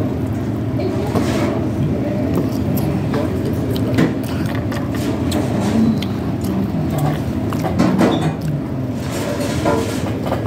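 Wet chewing and lettuce crunching close to the phone's microphone, heard as scattered short clicks. Under it runs a steady low rumble of room noise with faint voices.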